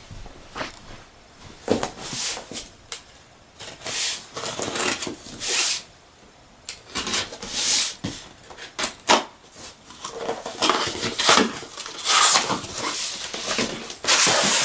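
Packaging of a die-cast model kit being handled: cardboard and plastic rustling and crinkling in irregular bursts.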